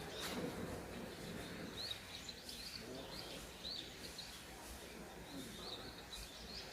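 Small songbirds chirping: short high notes, several a second, over faint outdoor background noise.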